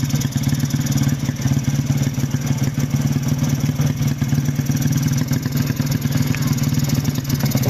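Underbone racing motorcycle engine running steadily at a constant speed, with a fast, even throbbing and no revving up or down.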